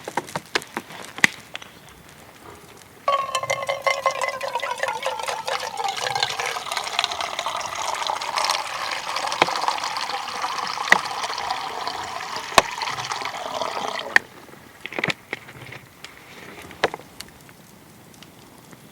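Liquid, likely water, poured steadily into a container for about eleven seconds, starting and stopping abruptly. A few light clicks and knocks of handling come before and after.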